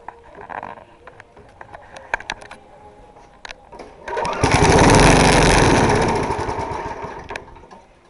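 A 3.5 hp lawn mower engine is pull-started after priming. After a few seconds of clicks and handling knocks, it bursts into running about four seconds in, then fades out over about three seconds and dies without staying running.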